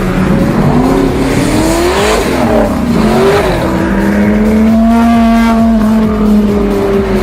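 Exotic sports car engines revving and passing by: engine pitch climbs and falls about two seconds in, then a held rev about four seconds in that drops away near the end.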